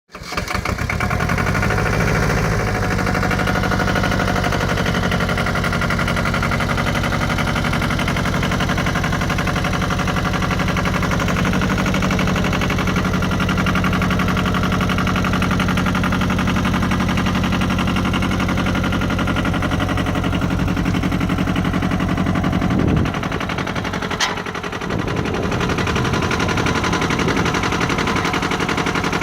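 Yanmar YM240D tractor's small three-cylinder diesel engine running with a rapid, even knock, its speed shifting a few times. About three-quarters of the way through the sound changes briefly and there is a single sharp click.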